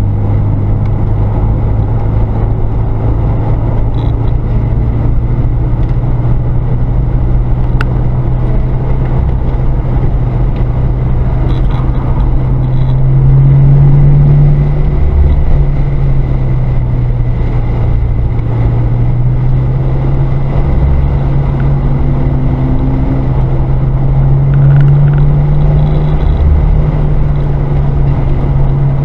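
Car engine pulling hard around a racetrack, heard from inside the cabin. It is a steady drone whose pitch climbs under acceleration about halfway through and again a few seconds before the end, dropping back in between, over road and tyre noise.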